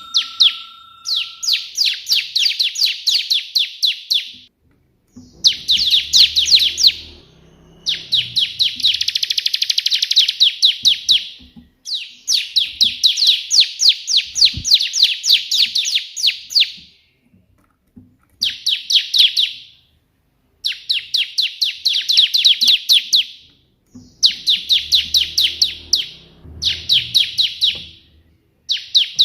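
A bar-winged prinia (ciblek) singing in bursts of one to five seconds. Each burst is a rapid string of high repeated notes, the 'tembakan' style copied from the white perenjak, with short pauses between bursts.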